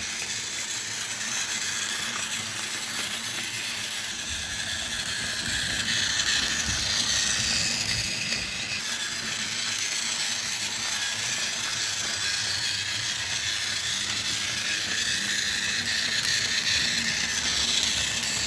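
Battery-powered Tomy Plarail Dennis toy diesel running on plastic track: the steady, high whir of its small motor and gears.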